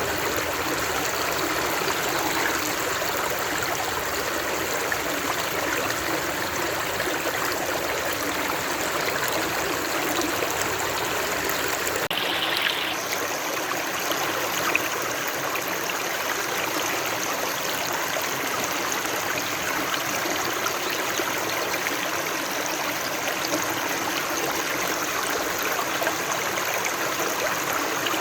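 Running water flowing steadily in an even, continuous rush, with a slight change in its tone about twelve seconds in.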